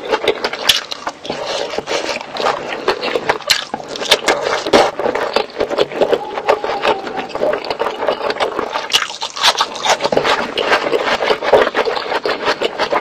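Close-miked eating sounds: a person chewing a mouthful of food, with lip smacks and a dense, uneven run of clicks and crackles.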